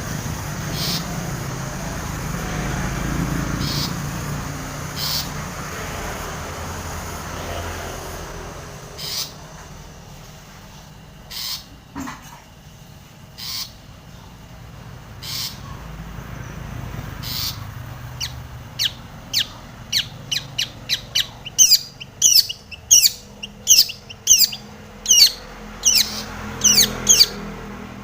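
Long-tailed shrike (cendet) calling: sharp, widely spaced call notes over a low background rumble at first. Past the middle this turns into a loud, rapid run of quick downward-slurred notes, several a second.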